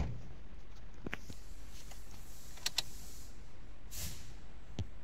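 A few scattered sharp clicks and small knocks, one at a time with a close pair in the middle, plus a brief hiss near the end: handling noises before the engine is started.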